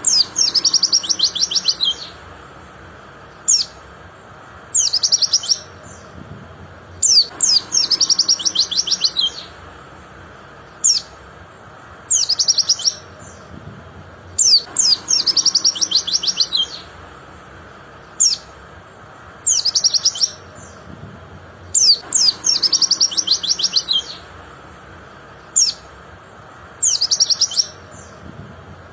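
White-eye (pleci) singing: bursts of rapid, high twittering about one to two seconds long, each followed by a single short chirp, in a pattern that repeats every few seconds. A steady low hiss runs underneath.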